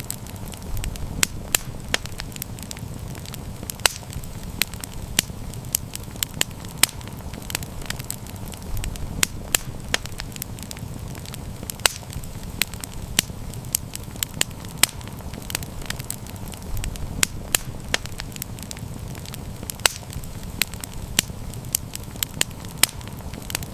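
Campfire crackling: many irregular sharp pops and snaps over a steady low rumble.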